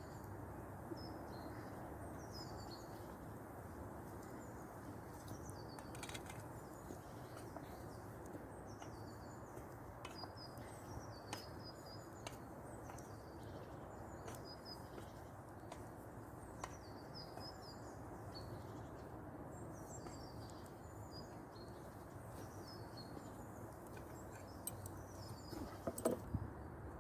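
Small woodland birds chirping over and over above a steady low hiss with scattered faint crackles. A few louder knocks come near the end.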